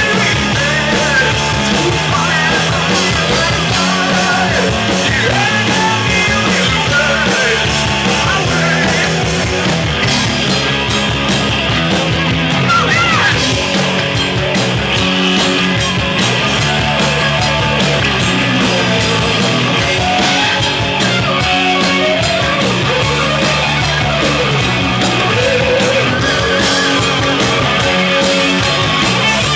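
Heavy metal band playing live: distorted guitars, bass and pounding drums, loud and unbroken, with singing at times.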